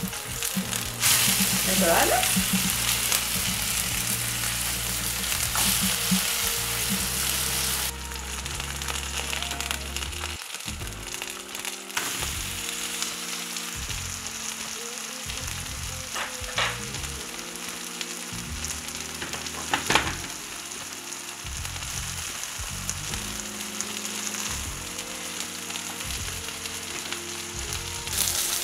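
Minced chicken and vegetable patties sizzling in hot oil in a nonstick frying pan. The sizzle is louder for several seconds from about a second in, just after the patties are turned over with a wooden spatula, then drops to a steadier, quieter sizzle with a few sharp pops.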